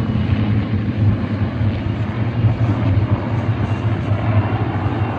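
Piston engines of a formation of Spitfire and Hurricane fighters flying over, a steady low drone with no break.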